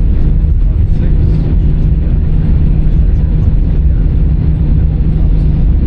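Steady low rumble of cabin noise inside an Airbus A319-100 on the ground after landing, from the jet's idling engines and air systems.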